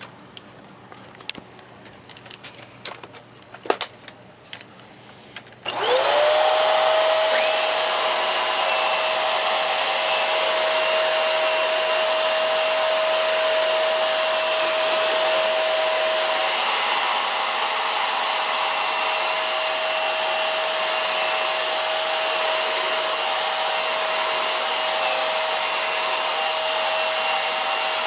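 A few light clicks and knocks, then about six seconds in a Hoover PowerDrive Pet bagless upright vacuum switches on. Its motor spins up within a second to a steady whine and runs on evenly.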